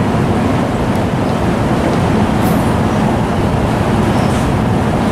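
Passenger train running past on the tracks: a loud, steady rumble of wheels on rail with a few faint high ticks.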